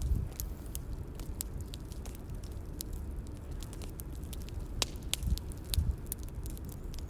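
Bonfire crackling: irregular sharp pops and snaps over a low steady rumble, with a few louder low thuds.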